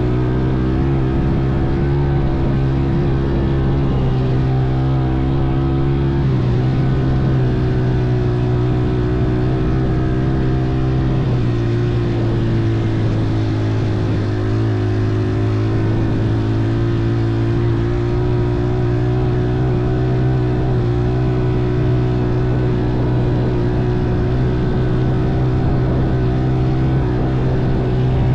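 Motorcycle engine running at a steady cruising speed, its pitch drifting slightly up and down with small dips in revs.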